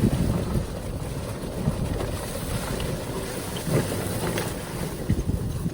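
Strong storm wind buffeting the microphone: a loud, low, gusting rumble that rises and falls in irregular surges.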